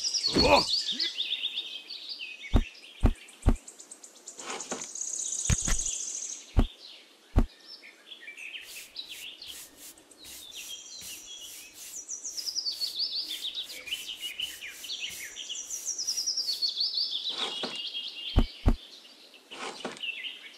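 Songbirds chirping in repeated descending trills. Under them come a few sharp knocks and the quick scratchy strokes of a paintbrush sweeping debris out of a plastic pond basin.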